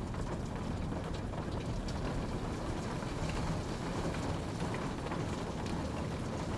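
Steady rain falling, an even wash of sound with a low rumble beneath and scattered faint drop ticks.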